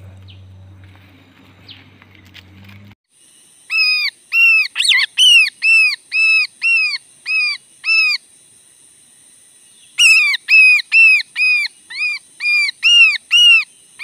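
A caught bird, held in the hand, calling loudly over and over: short arched calls about two a second, in two runs of several seconds with a pause between, starting a few seconds in. A faint low hum comes before the calls.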